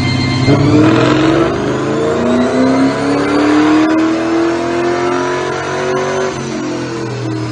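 2001 Mustang GT's 4.6-litre two-valve V8 making a full-throttle pull on a chassis dyno. About half a second in it goes to full throttle and the revs climb steadily for about six seconds, then back off near the end.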